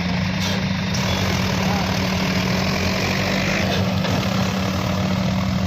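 Heavy diesel engine running steadily at a constant speed, a low, even hum.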